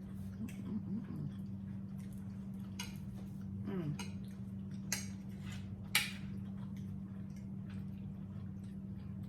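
Forks and cutlery clicking a few times against plates during a meal, the sharpest click about six seconds in, over a steady low hum.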